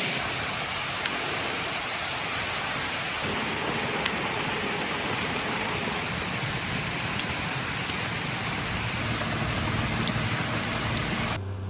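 Steady rain falling, with scattered sharp taps of drops that come more often in the second half. It cuts off abruptly near the end.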